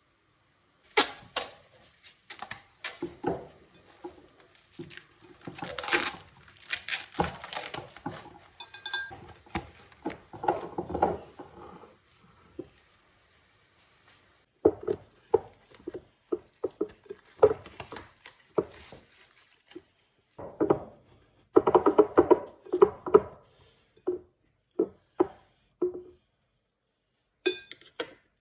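Kitchen clatter: dishes, bowls and utensils being handled and set down in irregular knocks and clinks, in two busy stretches with brief lulls between them.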